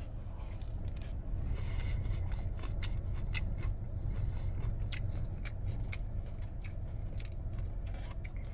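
Close-up chewing of crunchy breaded country fried steak: irregular crisp crunches and clicks, over a steady low hum in the car.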